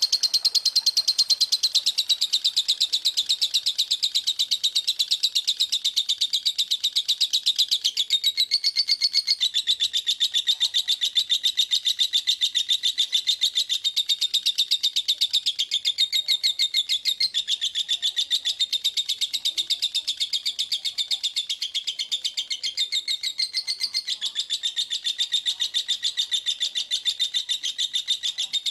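Songbird singing a continuous, rapid-fire 'speed rapat' song: tightly packed high chirps with no pauses, the pitch shifting a little every few seconds.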